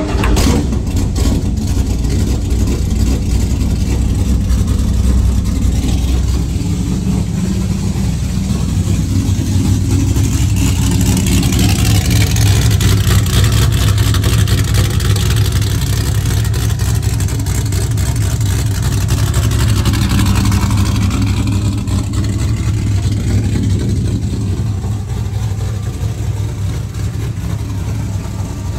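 V8 engine of a street-legal NASCAR-style stock car, just fired up and running loud and steady, swelling somewhat from about ten to fifteen seconds in.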